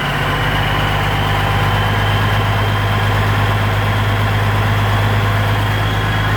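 Engine running steadily, held at a raised speed of about 1100 RPM, with a deep even hum and a faint high whine.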